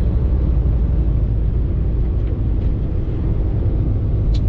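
Semi truck driving on a snowy highway, heard from inside the cab: a steady low rumble of engine and tyres. A few short sharp clicks come near the end.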